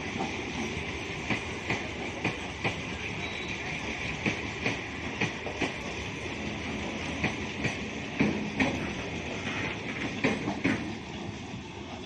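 Suburban electric local train running along the platform, its wheels clicking over the rail joints in pairs, a pair about every second, over a steady rumble.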